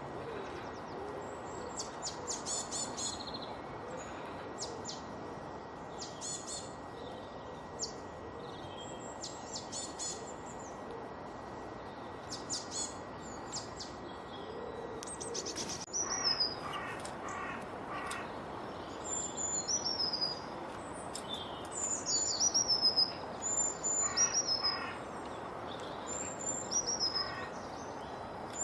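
Several birds chirping and singing over a steady background hiss, with quick high chirps and rapid trills. From about halfway, short high whistled notes slide downward again and again.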